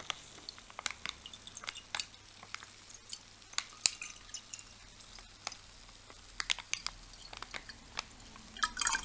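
Plastic drink pouch being handled and opened, with scattered small clicks and crinkles; near the end the mixed electrolyte drink begins to pour out into a glass.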